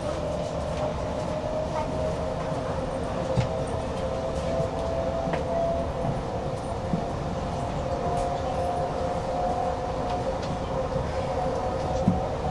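Electric passenger train running, heard from inside the carriage: a steady rumble of wheels on rails with a sustained whine that creeps slightly higher in pitch.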